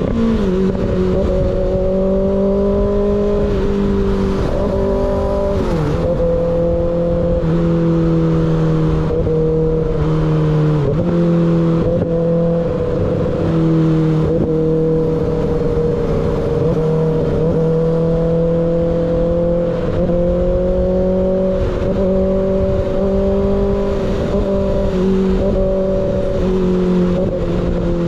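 Sport motorcycle engine with an unbaffled slip-on exhaust running at steady cruising revs on the move, heard from the bike with road and wind noise. The note holds a fairly constant pitch, with short dips and recoveries several times as the throttle eases and opens again.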